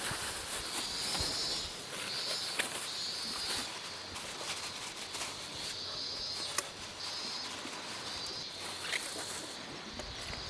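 Short, high, trilling animal calls repeating about every second, with scattered light clicks.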